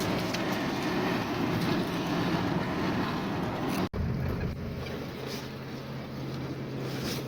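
Vehicle engine and road noise, a steady low rumble. About four seconds in it cuts off abruptly and resumes as a steadier, even engine hum.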